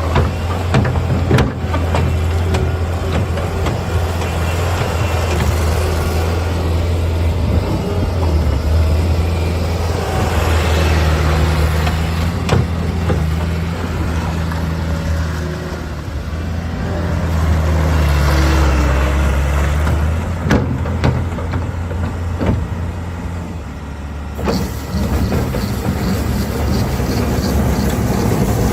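Bobcat S18 skid steer loader's diesel engine running, its speed rising and falling, with occasional sharp clanks.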